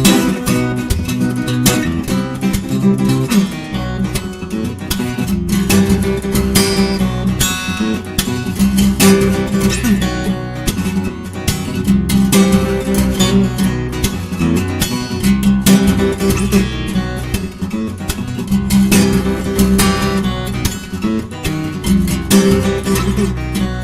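Acoustic guitar played fingerstyle: plucked melody notes over a repeating bass line, with frequent sharp percussive string attacks.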